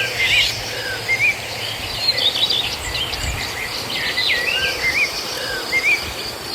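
Several birds chirping and calling in quick, repeated short phrases over a steady background hiss.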